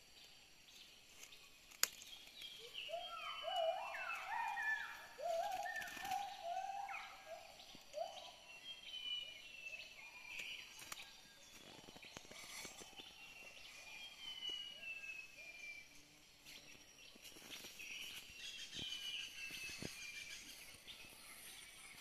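Birds singing: a run of short, rising, warbled phrases about three to seven seconds in, over repeated high, falling whistled notes. One sharp click about two seconds in.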